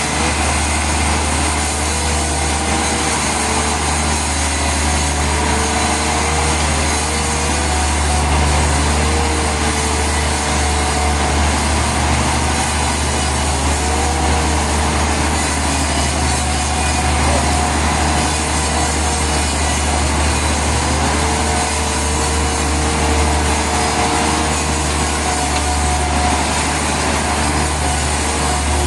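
Sawmill saw cutting through a large log, its motor running continuously under a steady hum, with a whine whose pitch sags and recovers several times.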